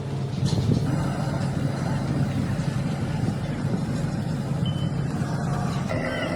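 A heavy vehicle's engine running with a steady low rumble.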